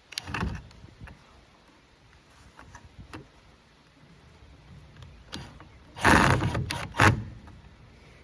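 A cordless drill-driver running in short bursts as hinge screws are backed out and driven again, the longest burst about six seconds in and a brief one about a second later, with a few light clicks of handling before.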